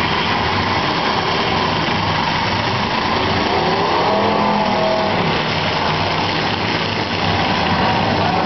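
Demolition derby cars' engines running and revving together, a loud steady din. One engine's pitch rises and falls about four seconds in.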